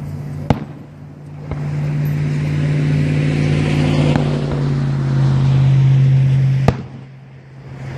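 Sharp firework bangs, one about half a second in and a loud one near the end, with fainter cracks between, over a steady low hum that swells through the middle and drops away right after the last bang.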